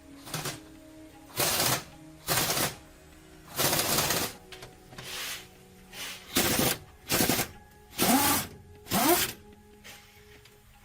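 Impact wrench on a heavy truck's wheel nuts, run in about nine short rattling bursts of roughly half a second each with pauses between. In the last two bursts the pitch dips and rises again.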